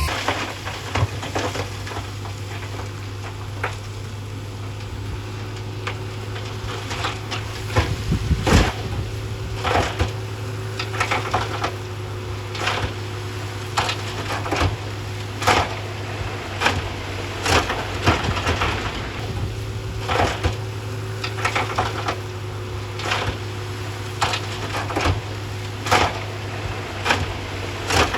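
A heavy earthmoving machine's diesel engine drones low and steady under repeated crunching knocks, one every second or two, of rock and fill being worked.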